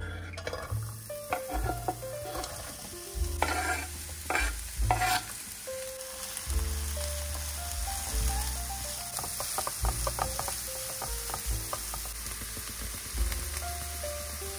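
Chopped onion and leek sizzling in hot olive oil in a nonstick frying pan, with a steady sizzle throughout. A spatula scrapes and stirs them: a few strong strokes about four seconds in, then a quick run of stirring strokes near the middle.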